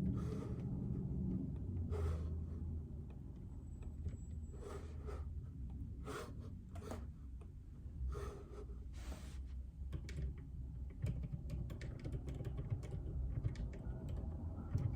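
Typing on a JJK84 mechanical keyboard with Outemu Silent Peach linear switches, giving soft, muted keystrokes. A few longer brushing strokes come in the first half, and the keystrokes turn into a quick, dense run of clicks in the second half.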